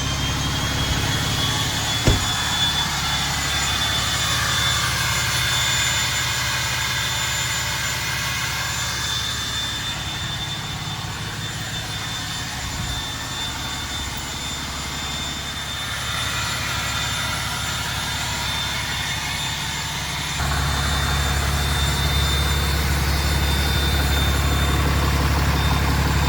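A Cummins 6.7-litre inline-six turbo diesel idling with a steady low rumble and a thin, high, steady turbo whistle, plus a single click about two seconds in. The low rumble grows louder about twenty seconds in.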